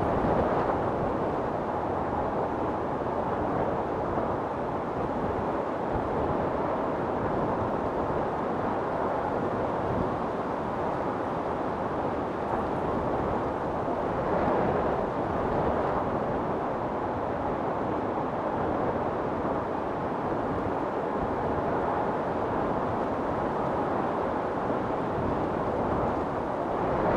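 Storm wind blowing hard and steadily as a dense rushing noise. A gust swells about halfway through and another at the very end.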